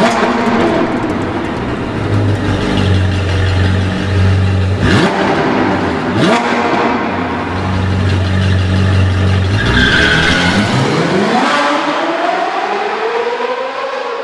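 Sports car engine revving, loud, with two sharp sweeps about five and six seconds in; over the last few seconds the engine note climbs steadily.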